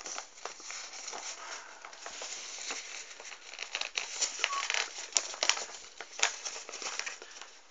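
A sheet of A4 paper being folded and creased by hand: continuous rustling and crinkling with sharp crackles as the folds are pressed down.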